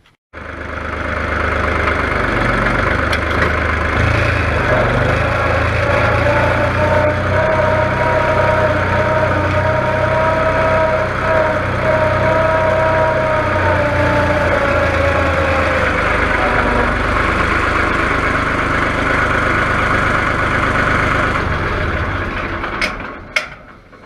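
Old farm tractor's engine running steadily, with a whine over it for several seconds in the middle, then dying away near the end.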